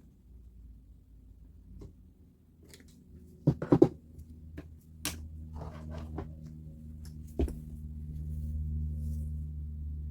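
Hard objects being handled: a series of separate clicks and knocks, the loudest a quick cluster about three and a half seconds in. A steady low hum comes up in the second half.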